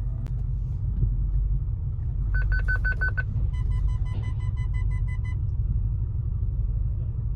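BMW X5 E53 4.8iS's V8 engine running with a steady low rumble as the car is driven slowly onto a lift. About two seconds in comes a quick run of about seven short high electronic beeps, then a slower series of lower beeps.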